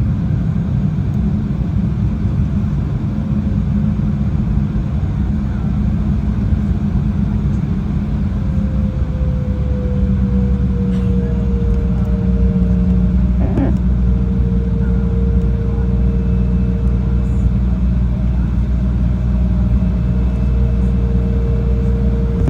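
Jet airliner cabin noise during the climb: a steady rumble of engines and airflow with a steady hum, one of whose tones slides slightly lower about nine to twelve seconds in.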